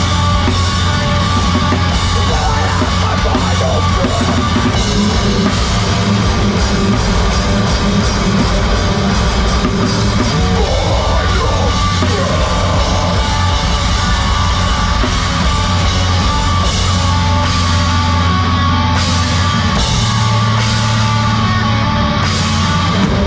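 Heavy rock band playing loud live: drum kit and amplified guitars, with some yelled vocals.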